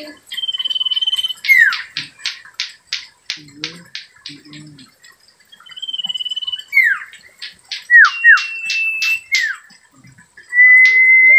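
Common iora (cipoh or sirtu) singing: long level whistles alternate with rapid runs of sharp notes and quick downward-sliding calls. The phrase repeats twice, and a long steady whistle comes near the end.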